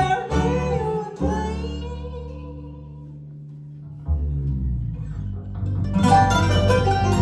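Live acoustic bluegrass band with guitar, banjo and voice. A long held chord and sung note ring out and fade, then about four seconds in the strings come back in and build to the full band again.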